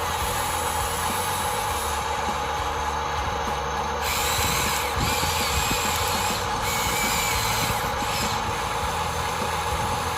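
Radio-controlled construction models' small electric motors and plastic gearboxes whirring steadily as they work, with a higher wavering whine joining and getting a little louder about four seconds in.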